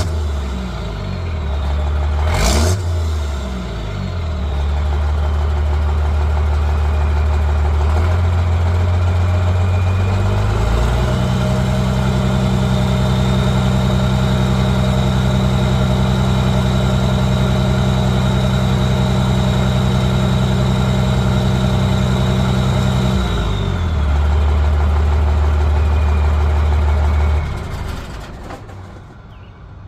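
5.9-litre 12-valve Cummins inline-six turbo diesel running through a 4-inch straight pipe with no muffler. A quick rev early on, then the engine climbs to a higher steady speed held for about twelve seconds before dropping back to idle, and the sound fades away near the end.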